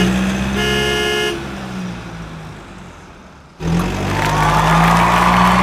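A vehicle horn sounds in short toots over a running engine, then stops about a second in, and the engine fades away. After a brief lull a new engine sound starts abruptly, with a steady high whine over it.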